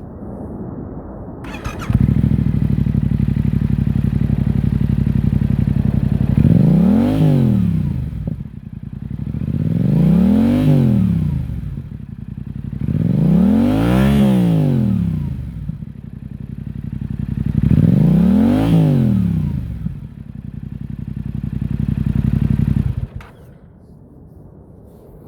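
Yamaha XSR700's 689 cc parallel-twin engine, breathing through an open titanium Akrapovic exhaust with no baffles, dB killer or catalytic converter, starts about a second and a half in and idles steadily. It is then revved four times, each rev rising and falling back to idle, and is switched off near the end.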